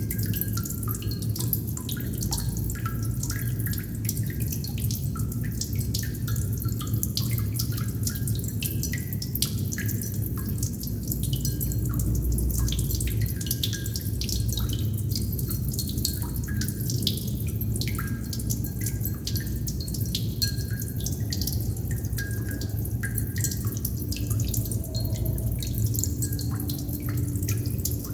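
Water droplets dripping continuously: many small drops plinking at slightly different pitches, over a steady low rumble.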